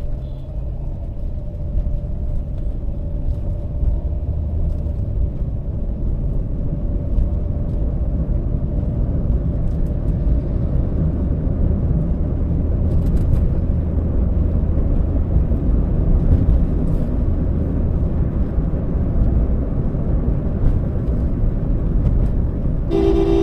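Steady low road rumble of a Toyota Allion sedan on the move, tyre and engine noise, slowly growing louder. A car horn sounds near the end.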